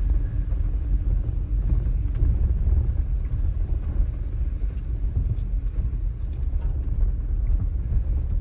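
Steady low rumble of a vehicle driving, with a few faint ticks.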